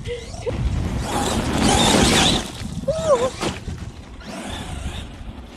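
Rushing noise with a heavy low rumble from wind buffeting the microphone, mixed with an Arrma Gorgon RC monster truck driving over wet ground. The rush is loudest from about one to two and a half seconds in, and a short wavering tone sounds about three seconds in.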